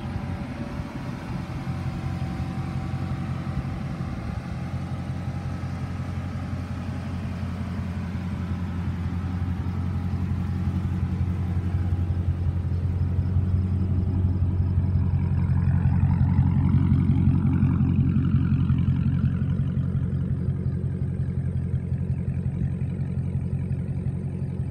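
Dodge Challenger V8 engine and exhaust running at a steady pace, with a deep drone that swells louder about two-thirds of the way through and then eases off.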